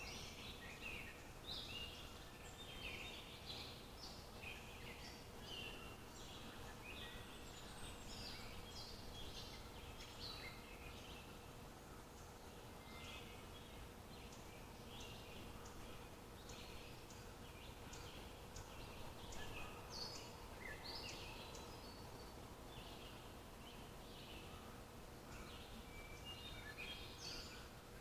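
Several wild birds chirping and calling over faint outdoor background noise, with many short calls overlapping throughout.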